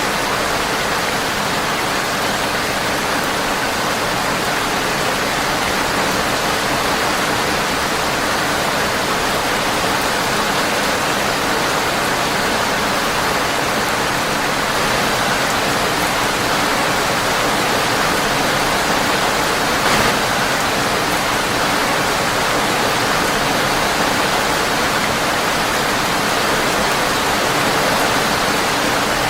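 Steady rain pattering on a windowpane, an even hiss with no let-up, with a single sharp pop about two-thirds of the way through.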